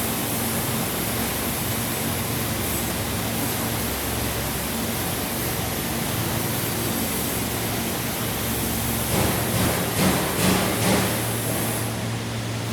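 Truck-mounted air-conditioning plant running: a steady rush of air from its blowers over a low machine hum. A few louder bursts come in about three-quarters of the way through.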